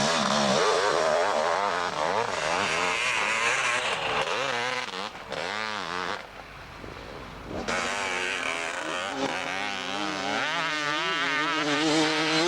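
Motocross motorcycle engines revving as the bikes ride, the pitch rising and falling again and again, with a brief quieter lull about halfway through.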